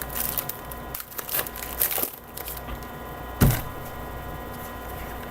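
A foil trading-card pack wrapper crackling and crinkling as it is torn open and the cards are handled, then a single dull thud about three and a half seconds in, over a steady electrical hum.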